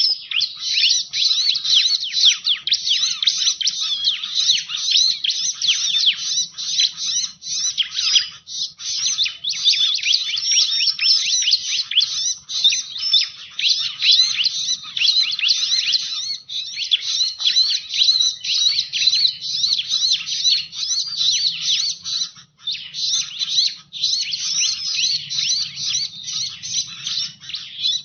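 Bar-winged prinia (ciblek) calling without pause: a dense stream of rapid high chirps and trills, broken only briefly about 8 and 22 seconds in.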